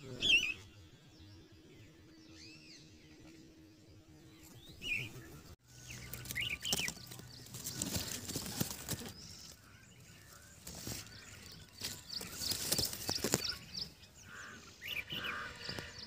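Bird chirping in short calls, with the loudest sharp chirp just after the start and more scattered chirps later. In the second half there are stretches of rustling noise.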